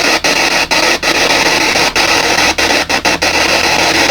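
PSB7 spirit box sweeping through radio stations: loud, steady static hiss broken by brief dropouts every half second or so as it jumps from channel to channel.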